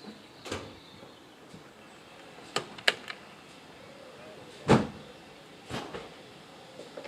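About half a dozen separate bangs and knocks from railway rolling stock. Two come close together a little before three seconds in, and the loudest is a heavy bang a little before five seconds in.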